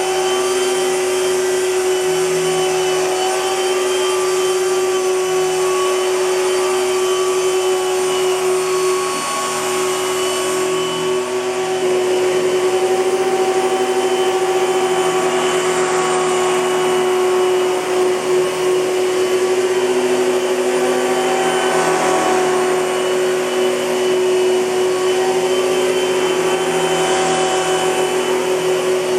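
1998 Hoover Futura Power Team canister vacuum cleaner running steadily with a high, even motor hum and rushing air. About twelve seconds in the sound gets a little louder and its pitch shifts slightly.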